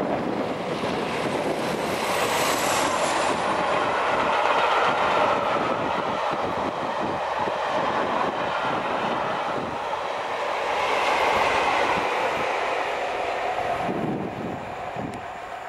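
Passing train headed by a class 47 diesel locomotive with its Sulzer twelve-cylinder engine, followed by a rake of coaches clattering over the rail joints. The sound swells again about eleven seconds in as the second class 47 on the rear goes by, then fades as the train moves away.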